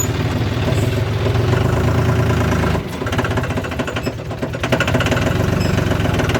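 Tractor engine running with a fast, even firing beat, just after being started, with a brief dip in the low throb about three seconds in.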